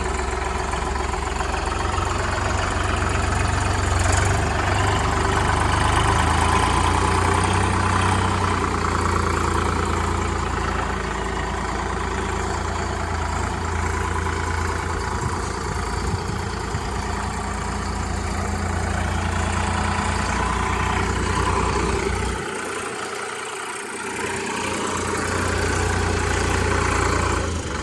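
Solis Yanmar 5015 tractor's diesel engine idling steadily. The deep rumble thins out for a second or two about two-thirds of the way through.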